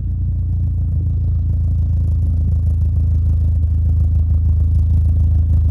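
BMW M44B19 1.9-litre 16-valve four-cylinder engine idling steadily, heard through a Friedrich Motorsport stainless steel exhaust fitted from the catalytic converter back, with a straight pipe in place of the middle silencer.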